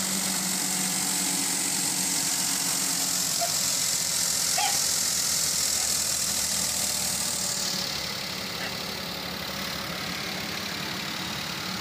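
Suzuki car's petrol engine idling steadily under the open bonnet, an even running hum with no change in speed.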